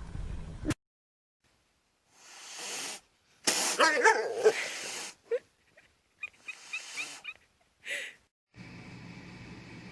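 A dog whining and yelping in several short bursts, with the loudest, wavering run about halfway through.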